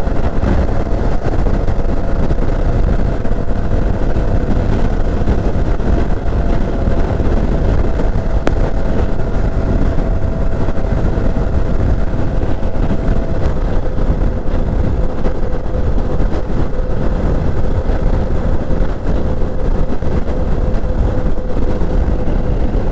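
Herald motorcycle riding along at a steady cruising speed: an even engine note under a dense, steady rumble of wind and road noise.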